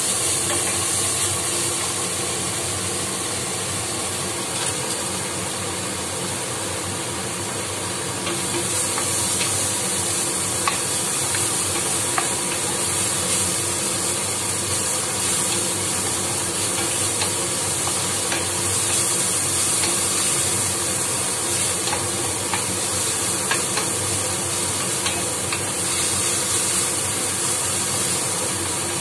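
Chopped onions sizzling in oil in a nonstick frying pan while a wooden spatula stirs them, with scattered light scrapes and taps of the spatula on the pan. The sizzle gets louder about eight seconds in.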